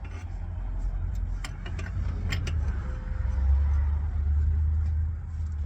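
Low rumble of the 1989 Ford F-150's 302 V8 engine running, swelling louder a little past halfway through. A few sharp clicks sound early on.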